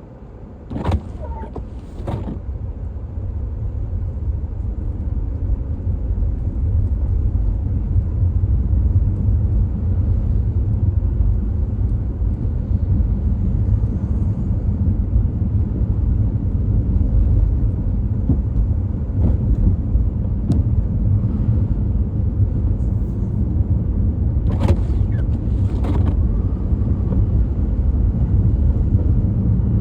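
Car driving, a steady low road-and-engine rumble that builds over the first several seconds, with a few short knocks near the start and two more late on.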